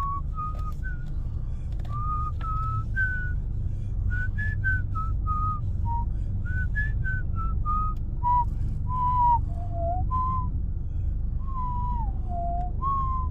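A person whistling a wandering tune: a string of short pure notes with a couple of slides downward, over a steady low background rumble.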